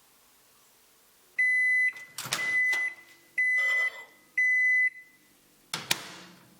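A household appliance's electronic beeper sounds four steady, high beeps of about half a second each, like an end-of-cycle or timer alert. Clicks and knocks fall between the beeps, with a sharp click near the end.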